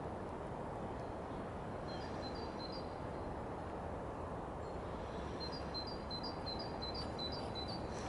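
A small songbird calling in quick series of short high notes, a few about two seconds in and a longer run of alternating two-pitch notes in the second half, over a steady low background rush.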